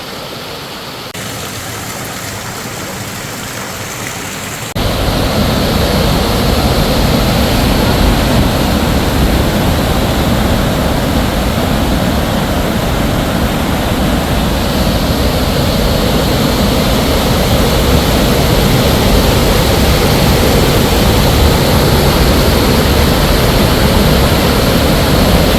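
Heavy storm rain and rushing water, a steady loud noise that jumps sharply louder about five seconds in.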